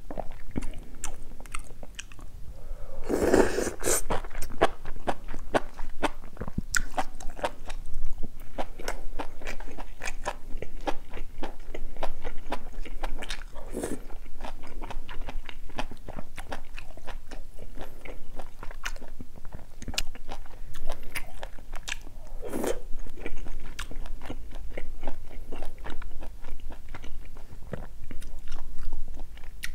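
Close-miked wet chewing and biting of spicy stew: enoki mushrooms, beef large intestine (daechang) and rice. Quick moist clicks and smacks run throughout, with two louder wet noises, one about three seconds in and one past twenty seconds.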